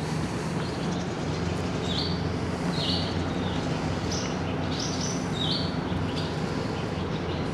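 A small bird chirping, about six short high calls roughly a second apart, over a steady low mechanical hum.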